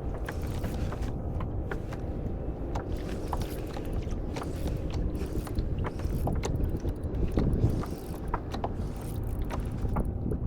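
Irregular clicks and knocks on a kayak over a steady low rumble, as a hooked hybrid striped bass is reeled in and landed.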